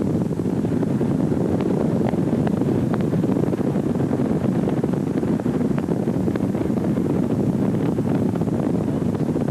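Wind buffeting the camcorder microphone: a steady, low rush with a few faint clicks.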